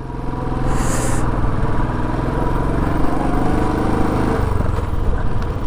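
Motorcycle engine running steadily while riding, with a rushing noise of wind over the microphone.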